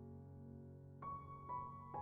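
Background music: a soft piano, a held chord dying away, then new notes struck about a second in and again half a second later.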